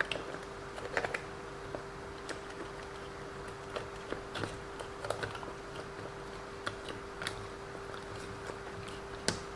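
Light, scattered clicks and taps of small plastic and metal parts as the metal centre drive shaft and its bearings are fitted back into a WLToys 144001 RC car's chassis, with a sharper click near the end. A faint steady hum runs underneath.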